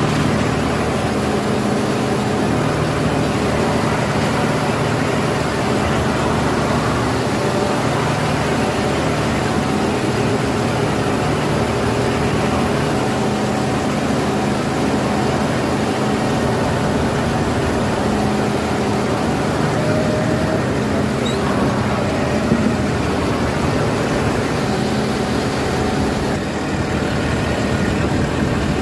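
John Deere tractor's common-rail diesel engine running steadily.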